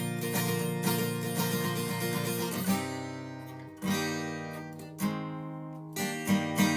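Acoustic guitar played alone: strumming, then a few single chords struck and left to ring out, with the strumming picking up again near the end.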